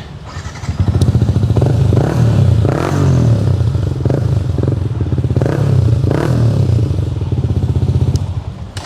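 Yamaha MT-15's 155 cc single-cylinder engine running through an aftermarket Akrapovic exhaust. It idles with a steady pulsing note, is given several quick throttle blips, and falls away near the end.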